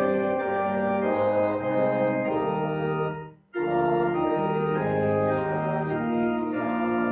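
Church organ playing a hymn in sustained chords, with a brief break between phrases about three and a half seconds in.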